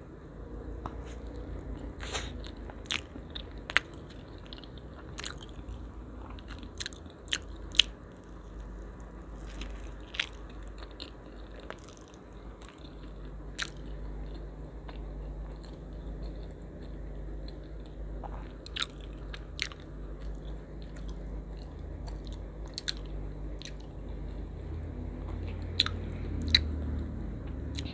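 A person biting and chewing a slice of banana and white-bread pudding close to the microphone, with sharp moist clicks and crunches scattered throughout, over a low steady hum.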